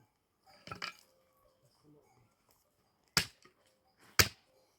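Three sharp knocks, the last two loud and about a second apart, with faint small noises between them.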